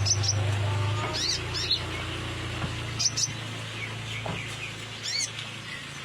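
Kolibri ninja sunbird calling: short bursts of high, thin chirps that come every second or two, over a steady low hum.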